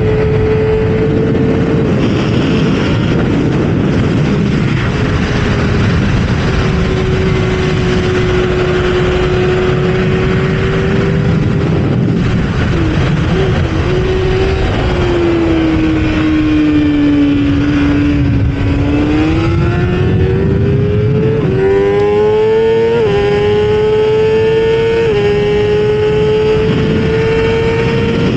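Kawasaki ZX-6R's inline-four engine running hard at high revs, over heavy wind rush on the onboard microphone. The revs sag gradually to a low point past the middle, then climb back up in a few quick steps near the end, as from upshifts under acceleration.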